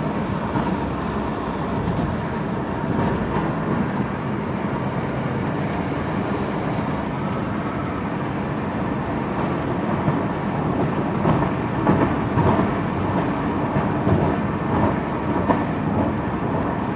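2002 Volkswagen GTI VR6 driving, with steady engine and road noise.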